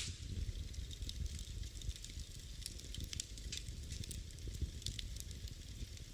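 Wood fire burning in a fireplace: a low steady rumble of flames with scattered sharp crackles and pops several times a second.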